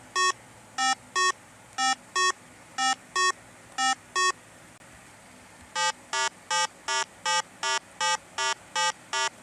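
A series of electronic beeps: five pairs of short beeps about a second apart, then after a pause a run of ten quicker beeps, about three a second.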